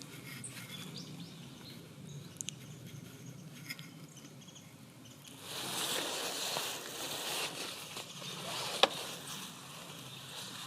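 Rustic buntings giving a few short, high, scattered calls, then a louder rustling noise for a couple of seconds from about halfway, with one sharp click near the end; a low hum lies underneath.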